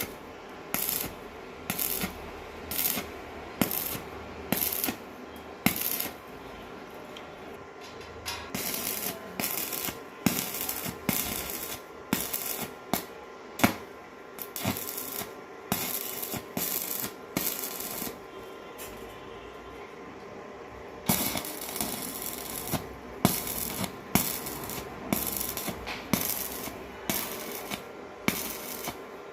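Welding in short bursts, about one a second, each a brief crackle with sharp metallic edges, some running together into longer stretches.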